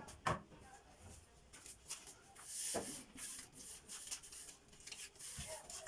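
Household handling sounds while tidying: two quick knocks at the start, then rustling and rubbing of things being moved, with another knock about three seconds in and a dull thud near the end.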